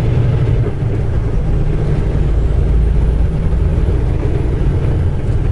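Semi truck's engine and road noise heard inside the cab while driving: a steady low drone.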